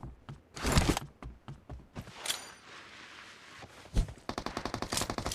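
Shooter video game sound effects: a few scattered thuds and knocks, then about four seconds in a sharp bang followed by rapid automatic gunfire, many shots a second.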